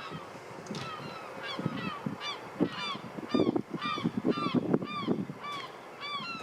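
Gulls calling: a rapid series of short, arching cries, several birds overlapping.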